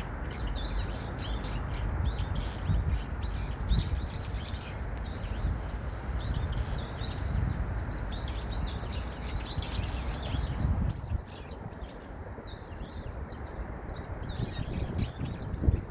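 Small birds chirping busily, many short, rapid high notes overlapping, over a steady low rumble that eases off about eleven seconds in.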